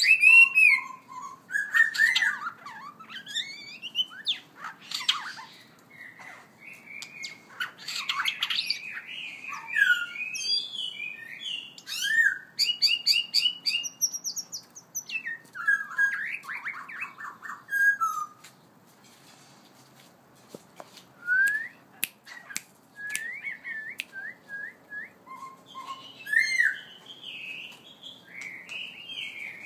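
Songbird singing a varied run of whistled phrases, quick repeated notes and harsh squawks, with a short pause about two-thirds of the way through before a series of rising whistles.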